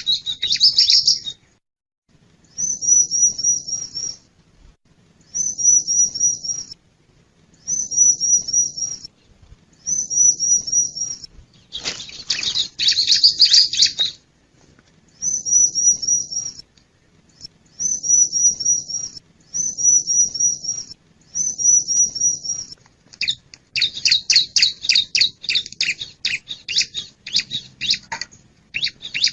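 Bar-winged prinia (ciblek) singing: short, high phrases of quick wavering notes repeated every couple of seconds. The phrases are broken twice by longer, louder runs of rapid chattering notes.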